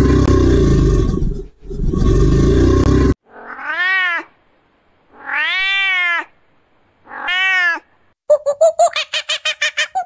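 Two long, deep, rough calls from a gharial, then a cat meowing three times with a rising-then-falling pitch. Near the end a fast run of short calls begins, about five a second.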